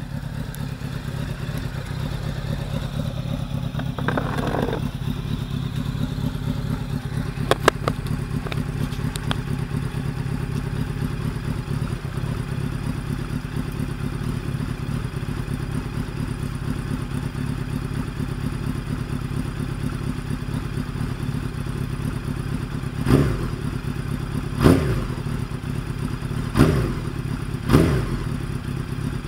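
1999 Honda CBR900RR Fireblade's inline-four engine idling steadily, then blipped with four or five quick throttle revs in the last six seconds.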